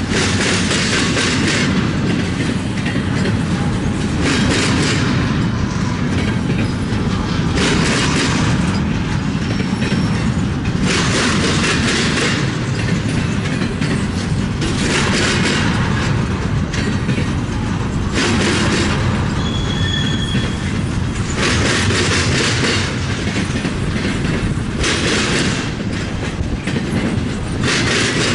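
Freight train cars rolling past with a steady rumble, their wheels clattering over the track in regular bursts about every three and a half seconds.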